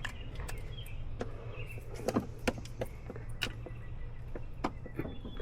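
Scattered light clicks and knocks of hands fitting a plastic electrical connector onto a newly replaced engine sensor, over a steady low hum.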